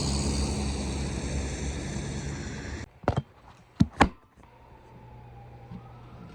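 A steady, loud rumble and hiss that cuts off abruptly about three seconds in, followed by three sharp knocks and then a quieter hum.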